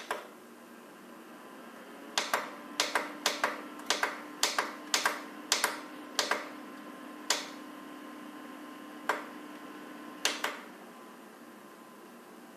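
Portable mini dehumidifier running with a steady hum. About fifteen sharp plastic clicks come in quick runs from about two seconds in until near the end, like its control buttons being pressed repeatedly.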